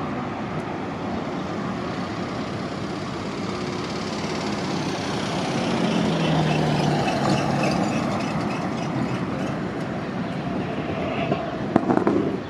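Diesel transit bus running as it moves through the terminal. The engine grows louder about six seconds in, with a run of short high-pitched chirps, and a few sharp clicks come near the end.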